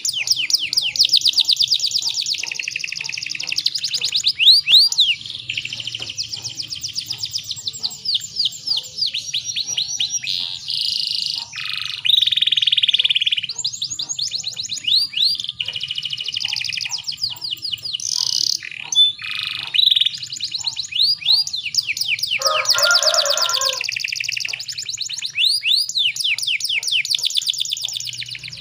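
Domestic canary singing a continuous song of fast trills and rolls, rapid runs of repeated high notes, with a brief lower, buzzy phrase about three-quarters of the way through. A faint low hum runs underneath.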